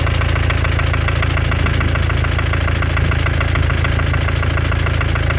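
Mercedes-Benz OM651 four-cylinder diesel idling with a fast, even knock from the top of the engine, like a small hammer tapping. The engine otherwise runs normally, and the knock is the same cold or hot.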